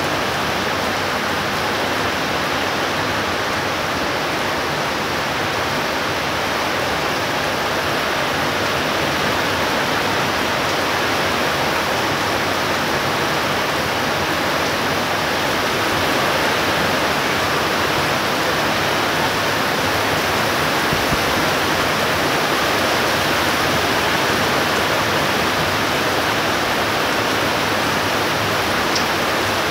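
Heavy rain pouring down in a thunderstorm downpour, a steady dense hiss that holds at an even level throughout.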